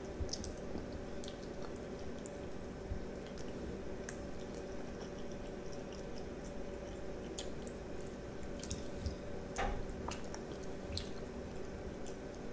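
A child chewing and slurping spaghetti in meat sauce: soft wet mouth sounds with scattered small clicks, a few sharper ones near the end. A faint steady hum runs underneath.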